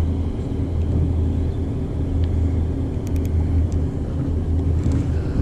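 Boat engine running steadily at idle, a constant low hum, with a few faint clicks about three seconds in.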